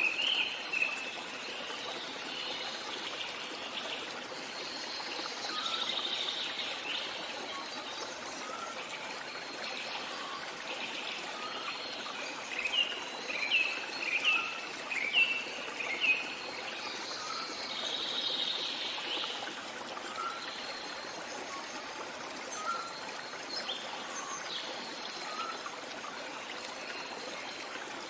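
A stream trickling steadily with birds singing over it: a run of short, loud falling chirps about halfway through, and a soft short note repeated every couple of seconds.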